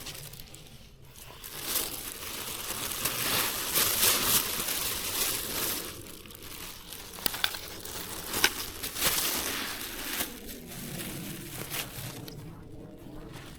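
Dry rustling and crinkling handling noise, swelling about two seconds in and easing off near the end, with a few sharp snaps past the middle.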